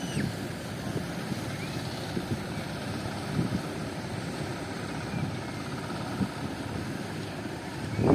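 Strong wind buffeting the microphone: a steady rushing rumble, with a few faint high chirps over it.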